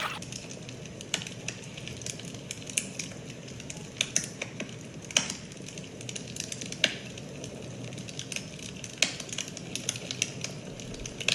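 A fire crackling: irregular sharp pops and snaps over a steady hiss, with a few louder snaps scattered through.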